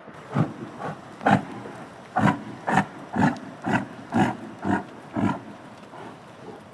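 An animal giving about ten short, loud calls in quick succession, roughly two a second, with a brief pause after the first three.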